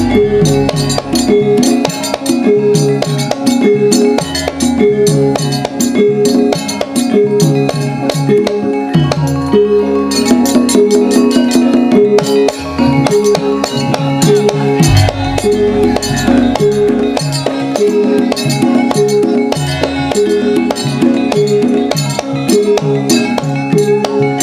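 Javanese gamelan music for a Lengger and kuda kepang dance, played loud through a sound system. Repeating pitched metal-keyed notes run over fast, dense percussion ticks, and deep drum strokes come in for stretches of a few seconds.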